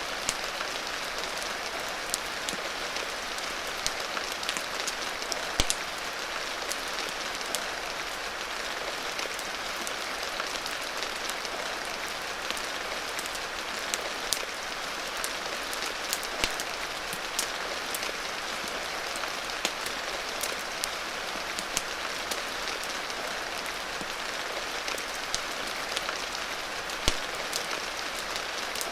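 Steady rain hissing, with a wood fire crackling over it in scattered sharp pops and clicks.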